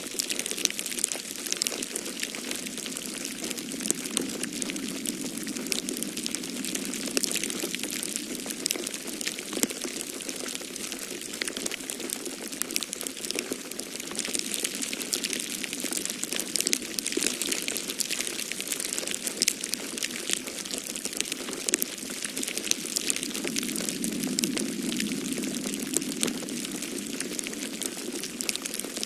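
Wood fire in a fireplace crackling with frequent sharp pops and snaps. A steady low rush of storm wind runs underneath and swells a few seconds in and again near the end.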